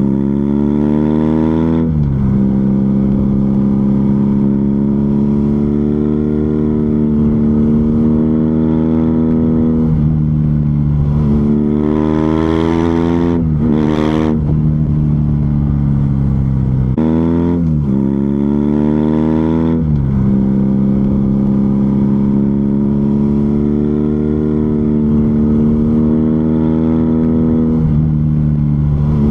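BMW R nineT Scrambler's air/oil-cooled boxer twin running through a Zard aftermarket exhaust while riding. Its note climbs under acceleration and drops sharply at each of several gear changes, with long stretches of steady cruising in between.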